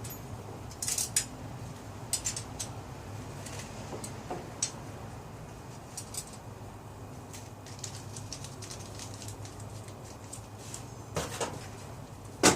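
Scattered clicks and light clatter of hard objects being handled and set down, in small clusters with a louder click near the end, over a steady low hum.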